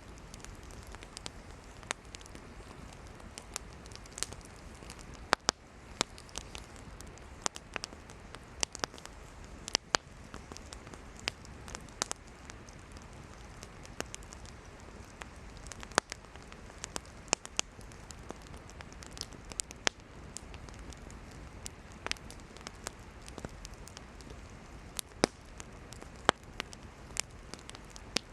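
Wood campfire burning with frequent sharp, irregular crackles and pops over a steady low rush of flame.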